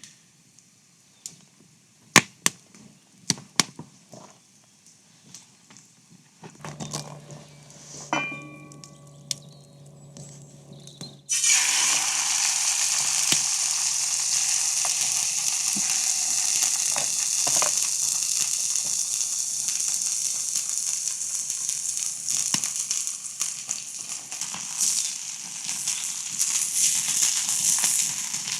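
Food frying in a hot pan: a loud, even sizzle that starts suddenly about eleven seconds in and carries on to the end. Before it come scattered sharp clicks and knocks, then a low hum with some brief ringing tones.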